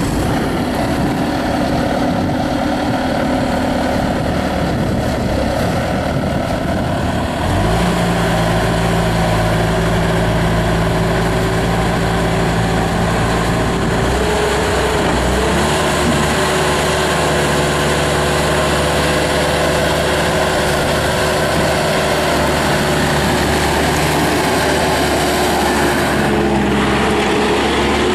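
Kubota V3300 four-cylinder turbo diesel of a Bobcat T300 skid steer running just after starting; its engine speed steps up about seven seconds in and shifts again about halfway through, then holds steady.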